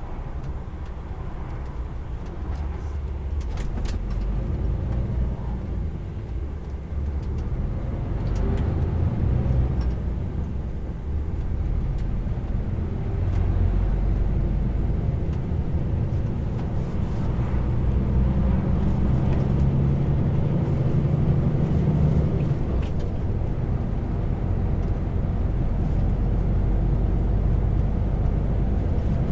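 Heavy truck's diesel engine and road noise, a steady low rumble that grows louder over the first half.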